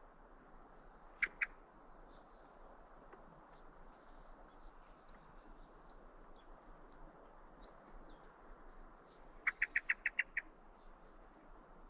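Small songbirds calling: thin, high twittering throughout, a pair of short chirps about a second in, and a quick run of about seven loud chirps near the end.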